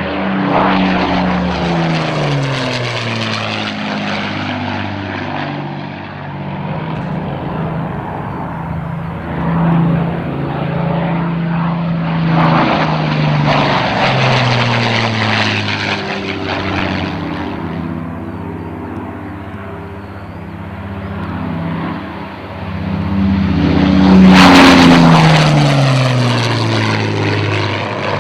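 Twin Rolls-Royce Merlin V12 engines of a de Havilland Mosquito at high power on low passes: the engine drone swells and drops in pitch as the aircraft goes by, three times, the loudest pass near the end.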